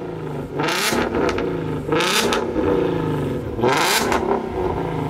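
Car engine being revved: three sharp rev blips, each rising and falling in pitch, about a second and a half apart.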